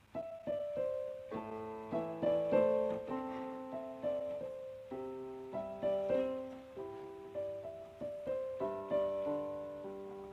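Background music: a gentle solo piano playing a slow melody with chords, notes struck and left to fade.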